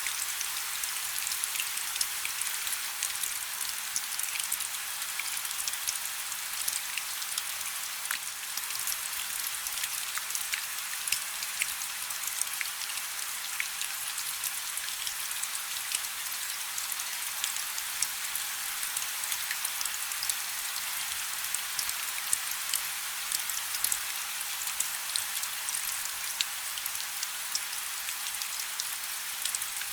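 Steady rain falling on a river: an even, high hiss of rainfall dotted with many small, sharp splashes of single drops hitting the water.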